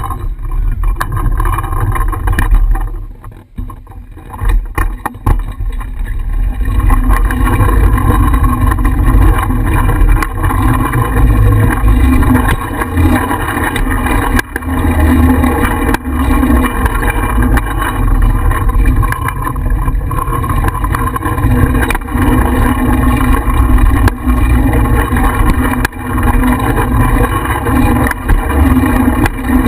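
Wind buffeting and road rumble on a bicycle-mounted GoPro while riding, with a loud low rumble, scattered small clicks and rattles, and a brief lull a few seconds in.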